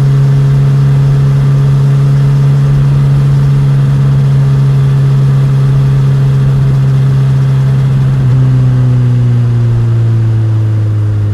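Suzuki GSX-S1000 motorcycle's inline-four engine and exhaust running at a steady pitch, then the engine note falls slowly over the last few seconds as the revs drop.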